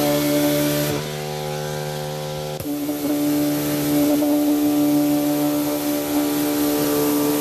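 A motor or engine running steadily with a constant-pitched hum. It changes abruptly about a second in and again about two and a half seconds in.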